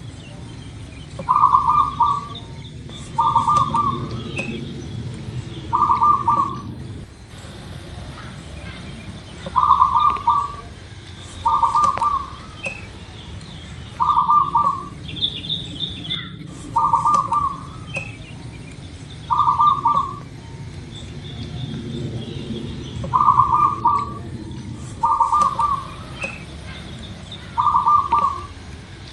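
Zebra dove (perkutut) cooing: about eleven short, trilled coos, each lasting about a second and repeated every two to three seconds. Other birds chirp faintly and higher-pitched behind it, over a low steady background rumble.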